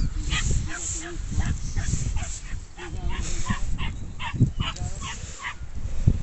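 Dog yapping and yipping in quick, uneven succession, with a low wind rumble on the microphone.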